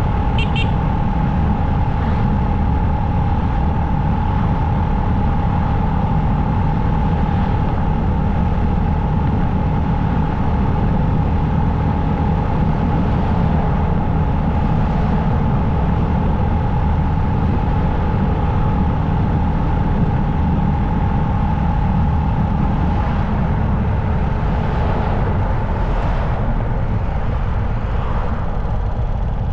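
Motorcycle running at a steady cruising speed, with constant engine and road rumble. A steady whine sits over it and fades out a little past 23 seconds in.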